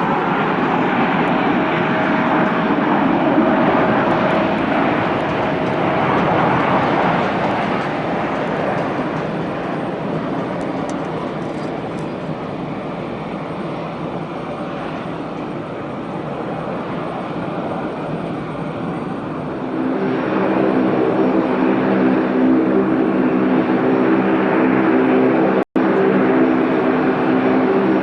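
Jet airliner landing: a loud broad engine rush with a steady tone that eases off over the first half, then about two-thirds of the way in a louder steady aircraft hum with several pitched tones sets in.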